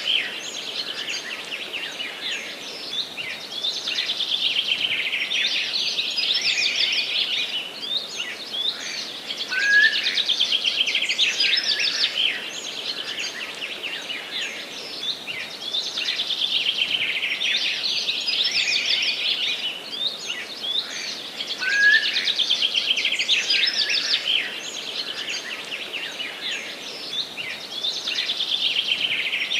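Songbirds singing in a forest: fast trilling, high-pitched song phrases a few seconds long, repeating every five or six seconds over a faint steady background hiss.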